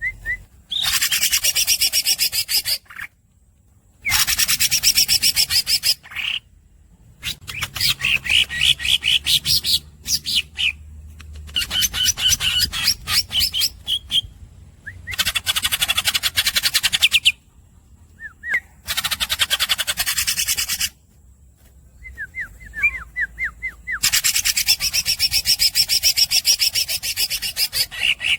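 Green leafbird (cucak hijau) singing in long rolls: about seven bouts of two to four seconds each of very fast, rapidly repeated high notes, separated by short pauses with a few brief squeaky chirps.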